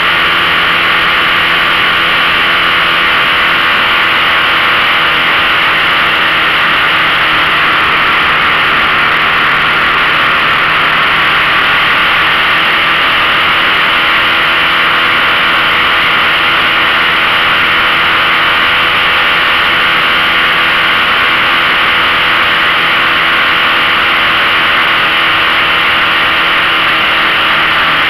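A 15 hp outboard motor running at a steady throttle, holding one even pitch, under a loud steady rushing noise.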